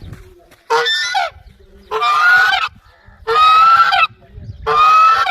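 A goose honking: four long, harsh calls about a second and a quarter apart, each rising slightly in pitch.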